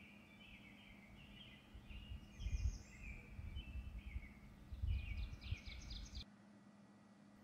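Faint chirping of small birds in short repeated trills, with a couple of soft low thumps about two and a half and five seconds in; the chirping cuts off abruptly near the end.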